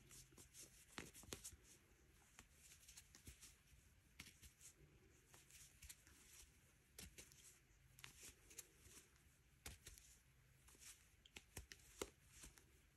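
Faint, irregular clicks and light rustling of hands working macramé yarn with a crochet hook.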